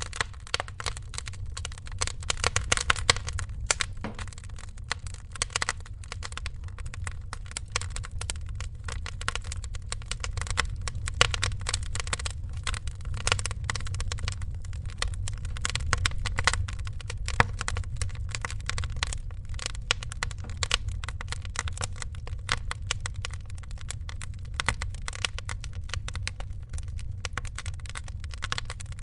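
Wood fire crackling steadily: a dense run of small crackles with a few louder pops scattered through, over a low rumble.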